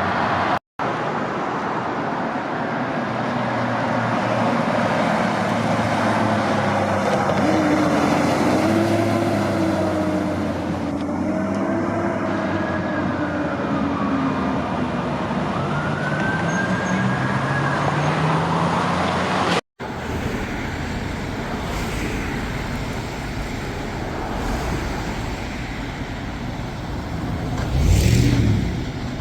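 Fire truck siren wailing in slow rising and falling sweeps over steady road traffic noise. After an abrupt cut, traffic and a truck engine are heard, and a sound swells up briefly near the end.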